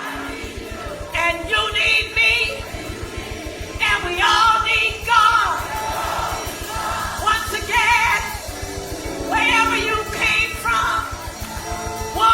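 Voices singing a gospel song with musical accompaniment, in phrases a second or two long.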